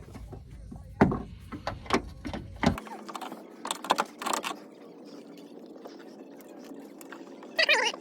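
Scattered sharp clicks and knocks, as of hand tools and metal parts being handled during suspension work. The knocks are densest in the first few seconds, with a few more about four seconds in.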